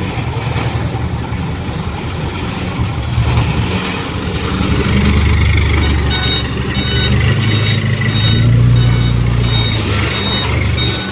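Mitsubishi Canter HDX dump truck's diesel engine running, its pitch and load rising from about five seconds in. A reversing alarm beeps repeatedly from about six seconds in.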